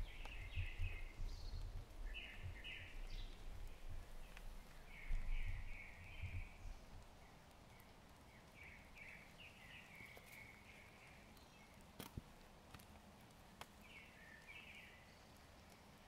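Small bird calling in short chattering phrases of quick notes, repeated several times, over the low thuds of footsteps on a forest path that stop about seven seconds in. A few sharp ticks follow in the quieter second half.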